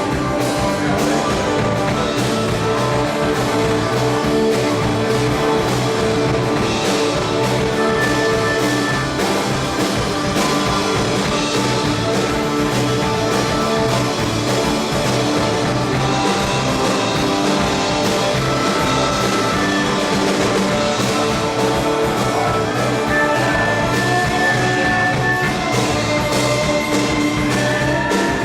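Live rock band playing, with guitar holding long notes over bass and drum kit.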